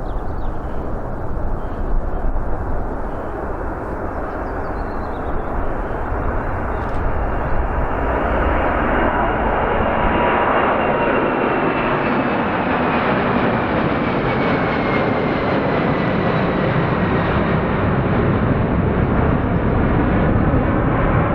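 Boeing 747-400 jet engines running loud, the noise building as the airliner passes, with a high whine that slowly falls in pitch midway.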